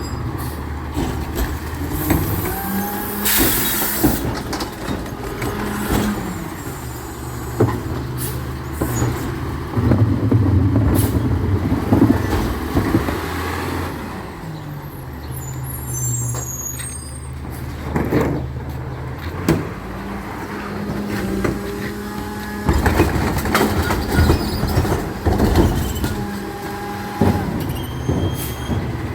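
Recycling truck's engine running and revving up and down in steps several times, with a short burst of air hiss about three seconds in and scattered clanks.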